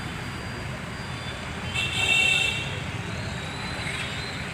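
Steady road traffic noise, with a vehicle horn sounding once about two seconds in for just under a second.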